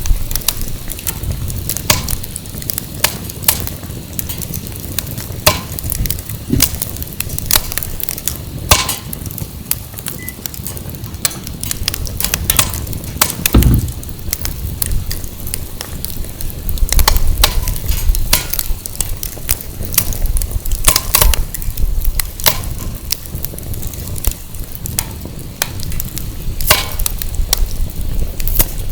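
Firewood burning in an open fire pit, crackling and popping with many irregular sharp snaps, over a low rumble of wind buffeting the microphone.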